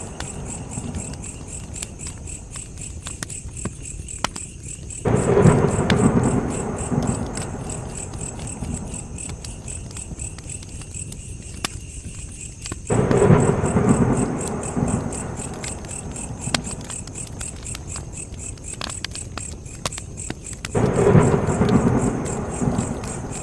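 Campfire crackling with scattered sharp pops over steady cricket chirping. A low rumble comes in suddenly three times, about eight seconds apart, each fading over a few seconds.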